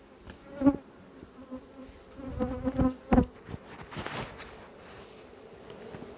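Honeybees buzzing steadily around an open hive, with a few sharp knocks and clatters, loudest about a second in and about three seconds in.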